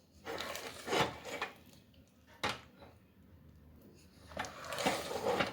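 A spoon stirring thick cake batter with soaked dry fruits in a bowl, scraping against the bowl in uneven strokes, with a sharper scrape about two and a half seconds in.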